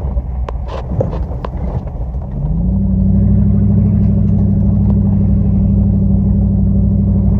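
Dodge Ram pickup's engine pulling the truck along a rough dirt trail, with a few sharp knocks and rattles over bumps early on. About two and a half seconds in the engine revs rise, and it holds at a steady, louder pitch.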